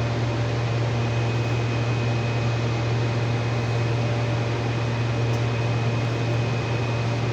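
Steady machine noise: an even airy hiss over a strong low hum, with a faint high whine, unchanging throughout.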